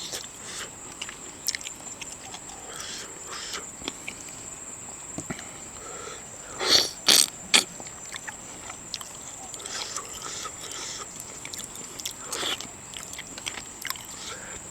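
Someone eating a seafood boil close to the microphone: chewing with many small clicks and cracks, and three louder bursts about seven seconds in. A faint steady high whine sits underneath.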